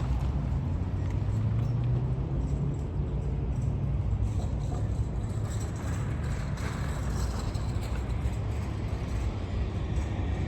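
A large engine running, a steady low drone with noise over it.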